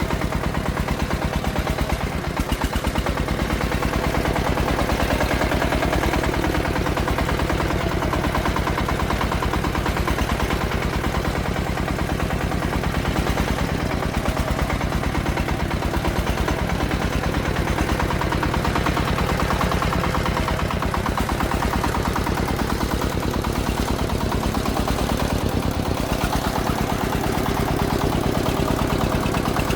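Single-cylinder diesel engine of a công nông farm vehicle running steadily, with a rapid, even chugging from its exhaust.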